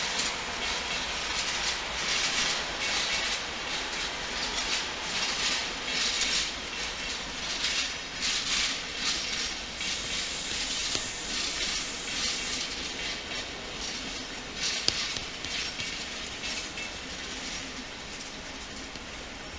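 A train rolling along the station track, with the rush and irregular hiss of steel wheels on rail rising and falling; it dies down over the last few seconds.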